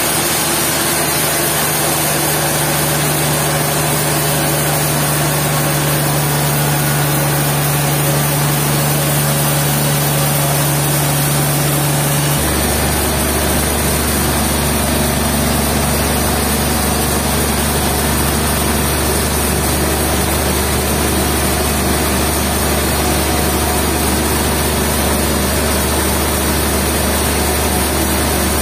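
Heavy sawmill machinery running with a steady loud drone and hum. About twelve seconds in, the hum switches suddenly to a deeper pitch.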